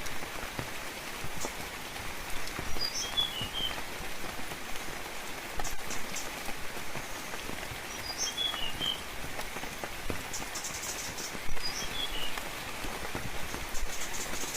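Steady rain falling in a forest, with a small bird giving a short, high chirped phrase of a few notes three times, several seconds apart.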